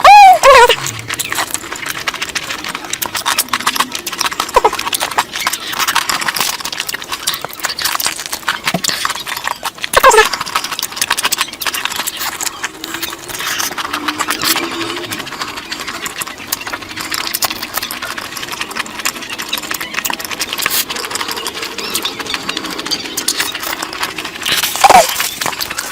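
Close-miked eating sounds: wet chewing and lip-smacking as curry is eaten, with many quick irregular clicks. Three short falling squeaks stand out, at the start, about ten seconds in and near the end.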